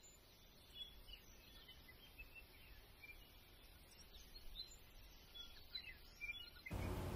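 Faint wild birds chirping, with scattered short calls and little whistled glides over near silence. About half a second before the end a steady low background noise comes in.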